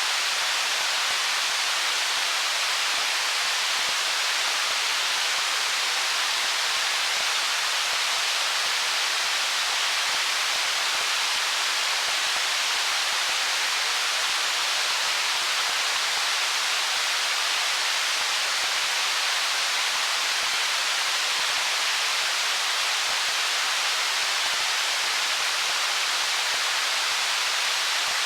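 Water of a stream rushing over stones: a steady, even hiss, brightest in the upper range, with no distinct splashes or changes.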